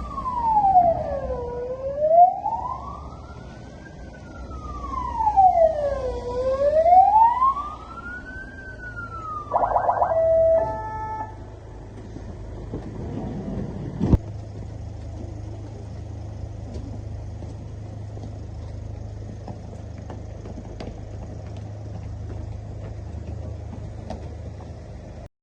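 Police car siren wailing, sliding slowly up and down through two full cycles, then a short burst of a different, stepped tone. About 14 seconds in there is a single sharp knock, after which a steady low hum runs on.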